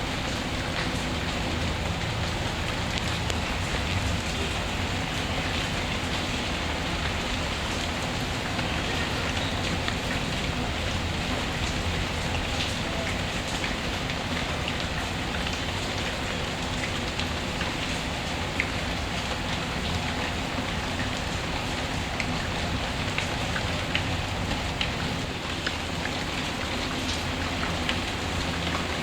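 Steady rain falling on a surface, a continuous even patter with scattered small drop ticks, layered with a fireplace ambience.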